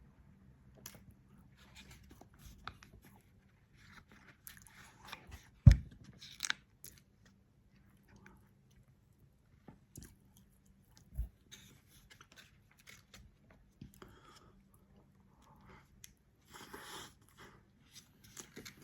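A person chewing a soft, sticky chocolate muffin, with faint wet mouth sounds throughout. A sharp knock comes a little under six seconds in, and a smaller one around eleven seconds.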